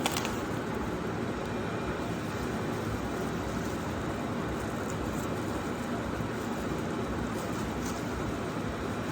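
Kitchen tap running in a steady stream into the sink, with a brief click right at the start.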